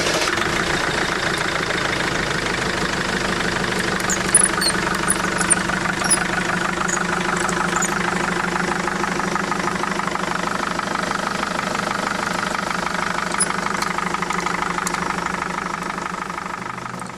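Truck engine idling steadily, fading out near the end.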